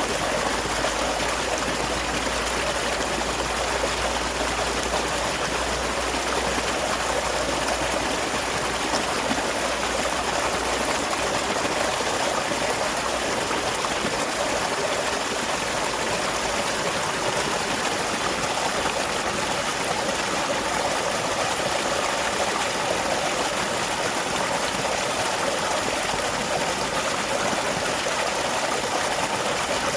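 Small waterfall: water falling and running in a steady, unbroken rush.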